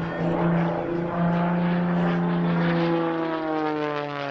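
Propeller engine of Rob Holland's MXS-RH carbon-fibre aerobatic plane, flying an airshow routine. It drones loudly and steadily, and its pitch starts to fall during the second half as the plane passes by and pulls away.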